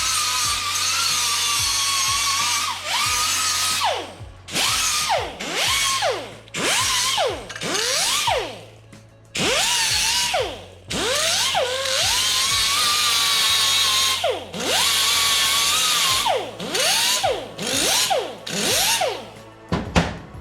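Handheld electric drill or similar power tool worked on metal pipe. It runs steadily for about four seconds, then is pulsed in short bursts, its motor whine rising and falling with each trigger pull. It runs steadily again for several seconds in the middle, then goes back to short bursts.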